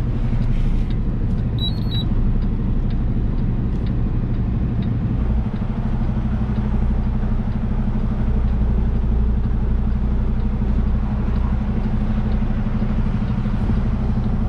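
Semi truck's diesel engine running at low speed while backing a trailer into a parking spot, its drone growing stronger about five seconds in. A short electronic beep sounds once about two seconds in.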